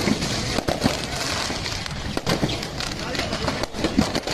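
People's voices talking over a dense, noisy background with a few sharp clicks.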